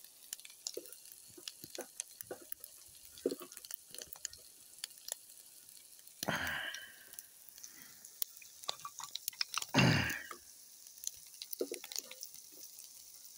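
Corned beef hash frying in a cast iron skillet over a small wood fire in a camp stove: a faint sizzle with scattered crackles and pops. Two louder rushes of noise come about six and ten seconds in.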